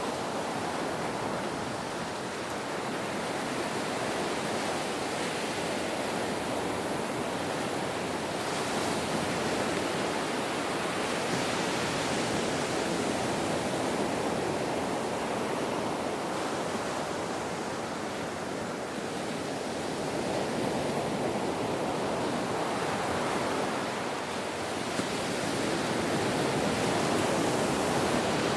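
Ocean surf: waves washing in a continuous rushing hiss that slowly swells and eases over several seconds.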